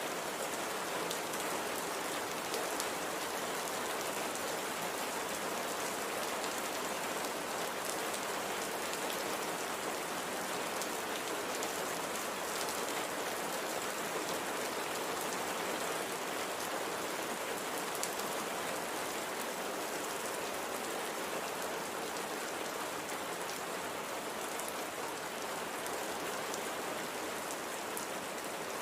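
Steady light rain falling on a surface, an even hiss with scattered faint drop ticks.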